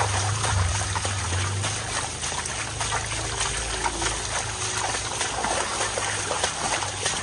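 Heavy rain falling, with shallow runoff water trickling along a path and splashing under walking bare feet. A low rumble runs through the first two seconds.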